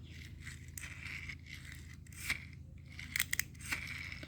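Plastic toy vehicle being handled: scattered light clicks and scrapes, a quick cluster of them about three seconds in, over a steady low hum.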